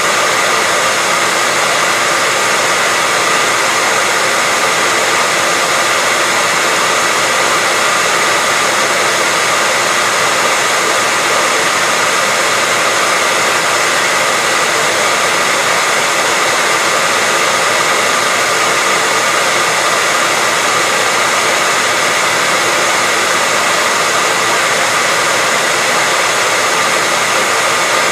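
Hair dryer running continuously, a steady, even rush of air noise with a faint whine and no change in pitch or level.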